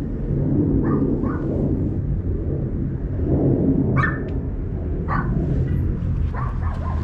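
A few short, sharp animal calls over a steady low rumble.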